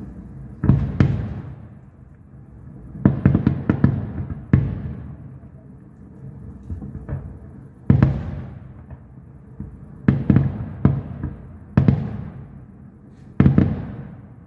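Aerial firework shells bursting: sharp bangs, some single and some in quick clusters of three or four, every one to three seconds. Each bang trails off in a long, fading echo.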